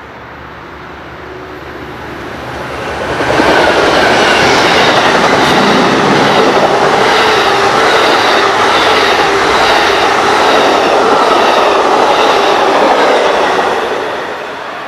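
A train passing close by at speed: the rumble and wheel clatter build over the first few seconds, stay loud for about ten seconds with a faint steady ringing from the wheels and rails, then ease off near the end.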